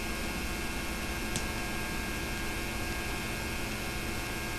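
Steady hiss and electrical hum from an old tape transfer of silent film, with one faint click about a second and a half in.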